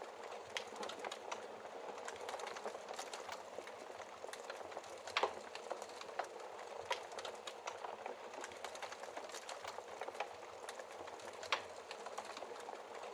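Wood fire crackling steadily in a fireplace, with a constant soft hiss of burning and many small irregular snaps, and a couple of louder pops, one about five seconds in and one near the end.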